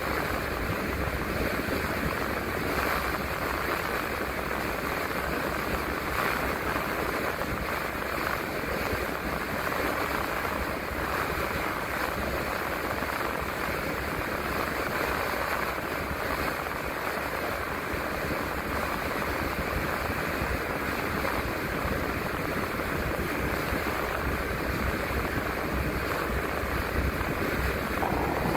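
Steady noise of a transit bus driving along, heard from inside: an even rush of tyre, wind and engine noise with a low rumble underneath, unchanging throughout.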